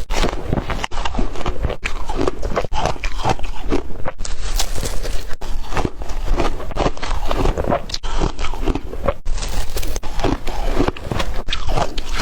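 Close-miked eating: a person biting and chewing food in a run of short, irregular mouth sounds.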